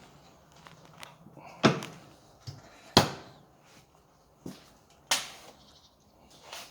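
A series of sharp knocks and clacks, four of them loud, each with a short ringing decay, in a small room.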